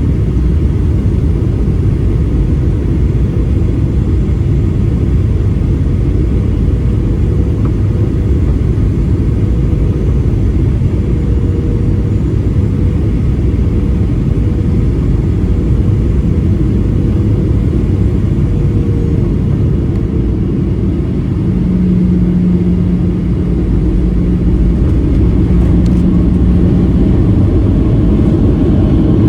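Steady cabin rumble of a Boeing 737-800 with its CFM56 engines running and air rushing past the fuselage, heard from a passenger seat. A faint hum runs underneath, and about two-thirds of the way in a lower tone holds for several seconds.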